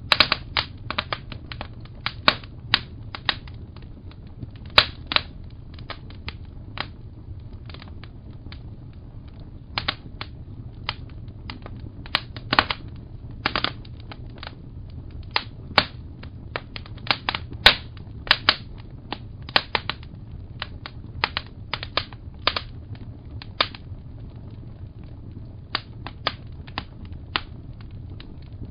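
Wood fire crackling: irregular sharp pops and snaps, sometimes several in quick succession, over a low steady rumble.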